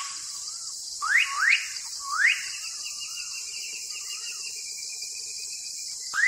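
Birds calling over a steady high hiss. There are about five short whistled calls, each sweeping quickly down and then wavering, and one longer trilling call in the middle.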